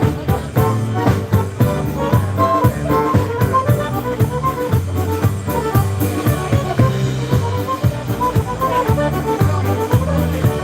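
Live polka band playing an accordion-led polka, with a quick melody line over drum kit and a steady oom-pah beat in the bass.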